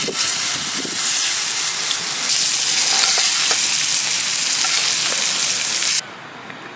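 Steak sizzling loudly as it sears over a campfire, an even hiss with a few small pops, cutting off abruptly about six seconds in.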